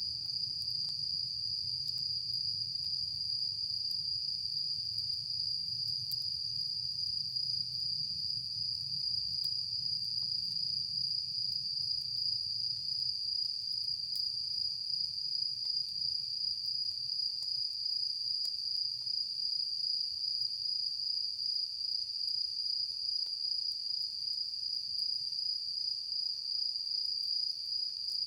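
Crickets trilling in one steady, unbroken high-pitched drone, with a few faint crackles from a campfire.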